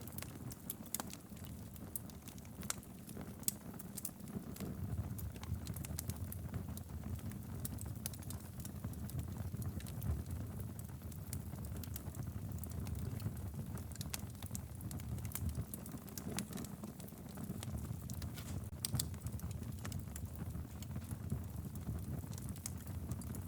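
Wood logs burning in a fireplace: frequent irregular crackles and sharp pops over a steady low rumble of the flames.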